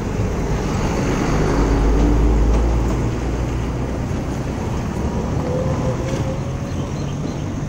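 Mini Cooper S Convertible's turbocharged 2.0-litre four-cylinder engine running, a deep rumble that swells about two seconds in and then eases to a steady level.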